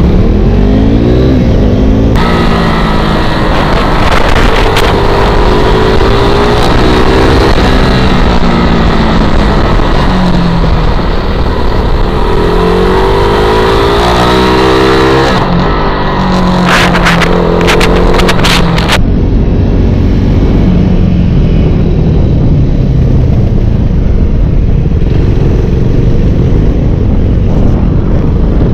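KTM RC single-cylinder sportbike engine revving up and falling back over and over as it is ridden hard around a short track, over a steady rush of wind noise. A quick cluster of sharp clicks comes past the middle. The engine settles to a lower, steadier note near the end as the bike slows.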